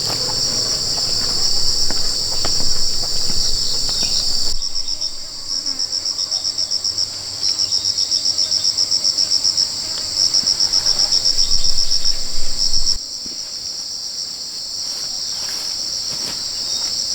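Loud, high insect chirring from the surrounding forest. Midway it breaks into a rapid, even pulsing, then returns to a steady drone near the end.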